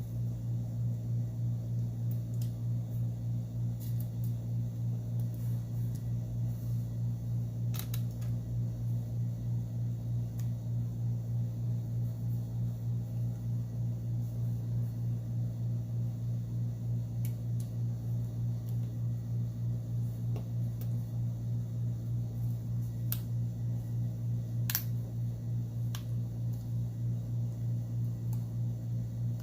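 A steady low hum with a slight regular pulsing, with a few brief sharp clicks scattered through it, as small phone parts are handled and fitted.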